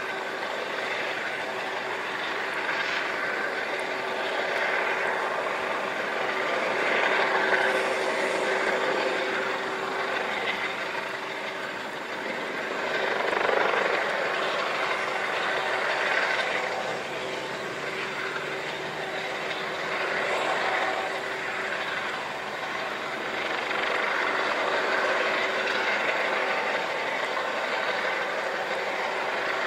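Helicopter running: a steady tone under a rushing noise that swells and fades every few seconds.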